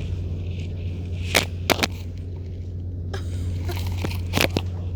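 Steady low rumble of a moving train, with a few sharp clicks and knocks, two close together about a second and a half in and one more near the end.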